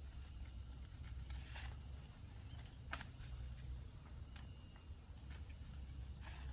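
Insects trilling steadily in one continuous high tone, over a low steady rumble, with a few sharp clicks scattered through and three quick high chirps a little past the middle.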